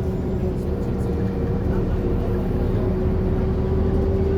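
Scania K230UB bus's five-cylinder diesel engine running steadily as a continuous low drone. Over it is a single whine that rises slightly in pitch near the end.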